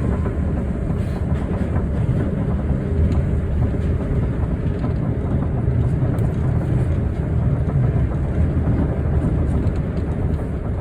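Osaka Metro New Tram, a rubber-tyred automated guideway train, running at steady speed: an even low rumble with a few faint clicks.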